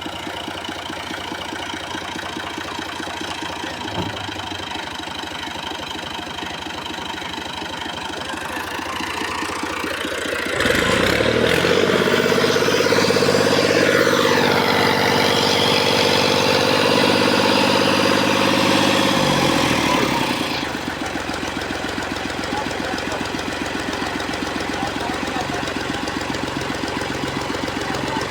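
Tractor diesel engine idling, revved up about ten seconds in and held at a higher, louder speed for about ten seconds, then dropped back to idle.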